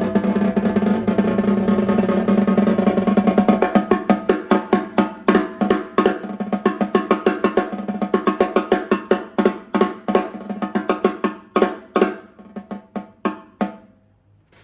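Snare drum played in a fast, dense roll that opens out into separate strokes, growing farther apart and softer until they fade out near the end; the drum's ring sustains under the strokes. Unmiked, heard through a phone's built-in microphone.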